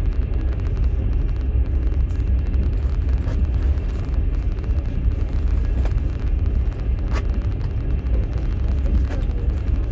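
Steady low rumble of a passenger train running on the rails, heard from inside an open-plan sleeper carriage, with a few faint clicks or knocks.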